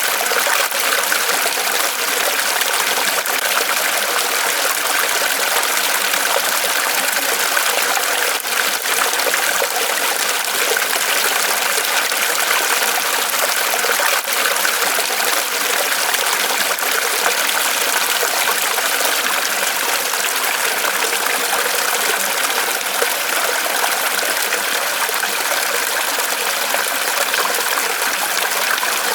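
Small waterfall of water pouring and trickling off a tree trunk, a steady even splashing rush.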